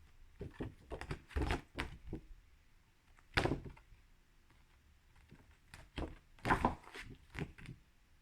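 A series of irregular soft knocks and thuds, like objects being handled and set down on a hard surface, the loudest about three and a half seconds in and again about six and a half seconds in.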